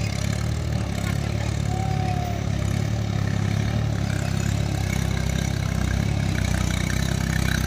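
Diesel tractor engine running steadily with a low, even hum.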